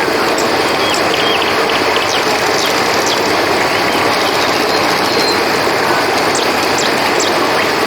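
A river flowing with a steady, even rush, with short high chirps scattered over it.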